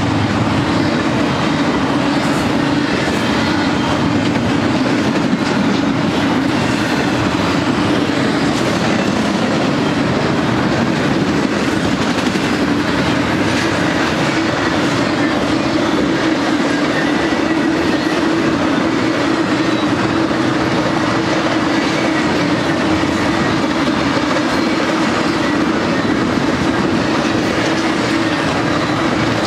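Double-stack intermodal freight cars rolling steadily past: a continuous loud rumble and clatter of steel wheels on the rails.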